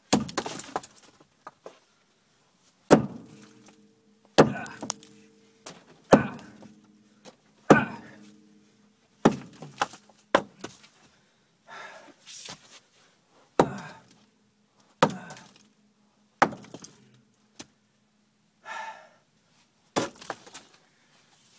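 Repeated heavy hammer blows, roughly one every one and a half seconds, several leaving a brief ringing tone after the strike.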